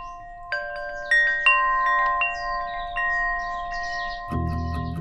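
Wind chimes ringing, several struck metal tones at different pitches overlapping and sustaining. Near the end, music with bass and a steady beat comes in.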